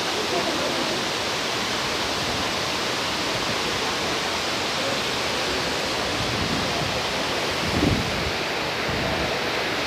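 Waterfall's steady rush of falling water, an even unbroken roar, with a brief low thump about eight seconds in.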